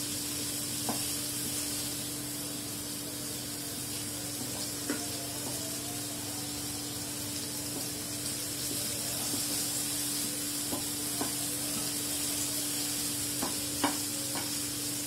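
Prawns frying in oil in a nonstick pan: a steady sizzle, with a spatula stirring and turning them and tapping the pan a few times, the sharpest tap near the end. A steady low hum runs underneath.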